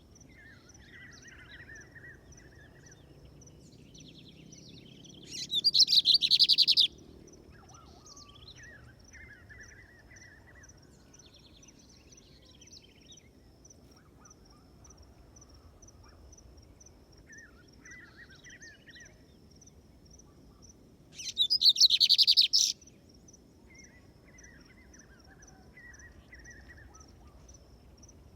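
Lined seedeater (bigodinho) singing: two loud rapid trilled song phrases of about a second and a half each, one about five seconds in and one near the end of the first twenty-three seconds. Softer bird chirps fall between them, over a faint steady insect ticking.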